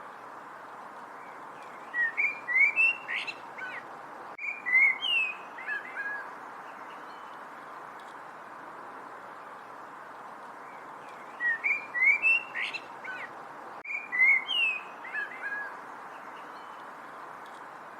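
A songbird singing a phrase of quick chirps and sliding whistles twice, the two phrases about nine seconds apart and nearly identical, over a steady background hiss.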